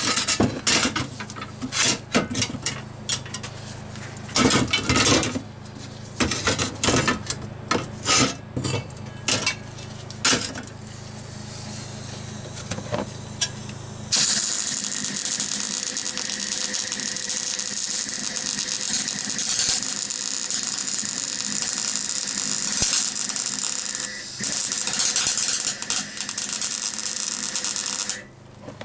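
Irregular sharp metal clicks and knocks. About halfway in, a MIG welder starts laying a bead on a steel bracket, a steady hiss that breaks off briefly once and stops just before the end.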